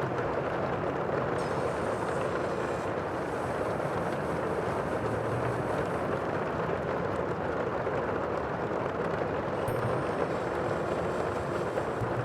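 Steady, even rushing noise of the sea, with no separate wave breaks standing out.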